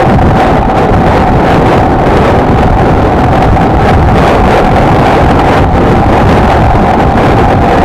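Honda XLR125R's single-cylinder four-stroke engine running at a steady cruising speed, with wind buffeting the microphone. A steady drone holds one pitch throughout.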